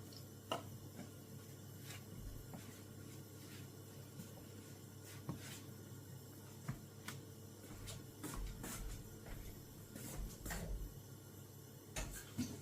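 Faint, scattered light clicks and soft knocks of hands kneading cornmeal dumpling dough, with a cluster of soft thumps from about eight to eleven seconds in.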